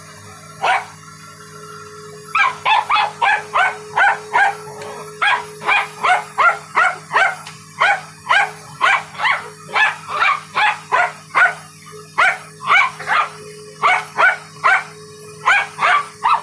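A dog barking at a vacuum cleaner's brush: a single bark, then from about two seconds in a fast, unbroken run of barks, two to three a second, over the vacuum cleaner's steady hum.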